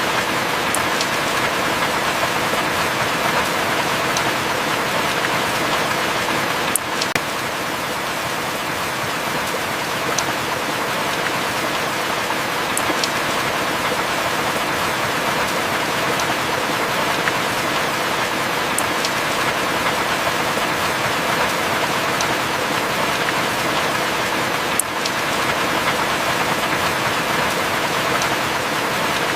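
Heavy rain falling steadily, an even hiss with a few faint high ticks of single drops scattered through it.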